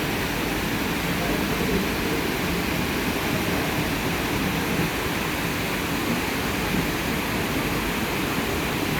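Steady rushing noise of a moving train, without distinct wheel clicks.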